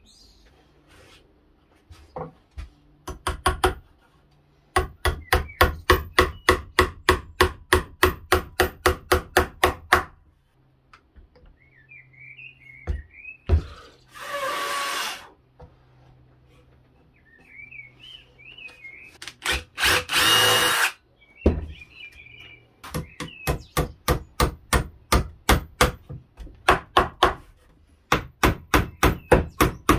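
Wood being struck in runs of rapid, evenly spaced knocks, about four a second. Two short bursts of hiss come in the middle, and birds chirp in the gaps.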